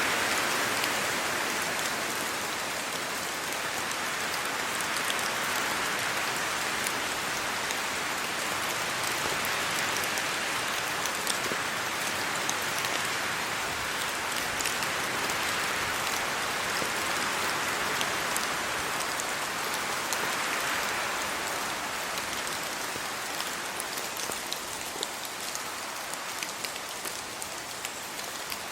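Steady rain falling on leaves and the ground, rising and falling in slow waves as the wind moves through the trees. Sharp drip ticks sound here and there, more often near the end.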